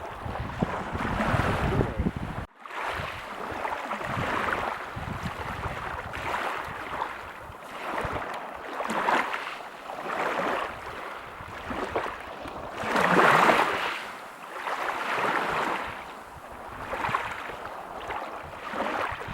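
Waves breaking on a beach: surf noise swelling and falling back in repeated washes every second or two, with one bigger wave about two-thirds of the way through. The sound drops out for an instant about two and a half seconds in.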